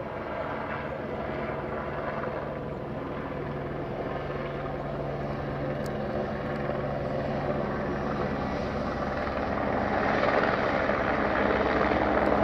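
Steady engine drone that grows louder over the last few seconds.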